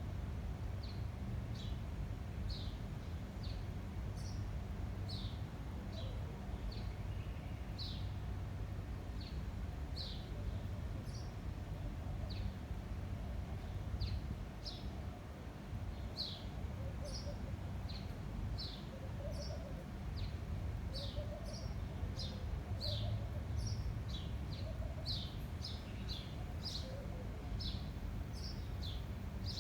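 Small birds chirping over and over, short high chirps that drop in pitch, coming faster in the second half, with a few softer low warbles in the middle. A steady low wind rumble runs underneath.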